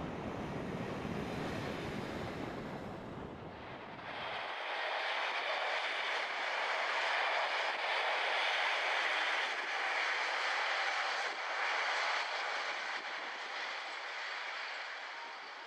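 Test train hauled by Class 37 diesel locomotives passing on the main line: a steady rush of wheel and rail noise with wind on the microphone. About four seconds in the sound changes abruptly and the deep rumble drops away; the train is then heard running away, loudest in the middle and fading near the end.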